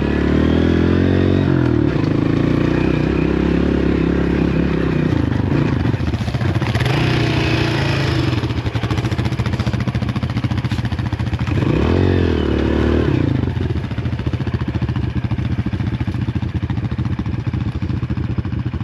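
Small dirt bike engine running under way, its revs rising and falling as the throttle is worked, with rev climbs near the start and again about twelve seconds in. A brief rushing hiss comes in about seven seconds in.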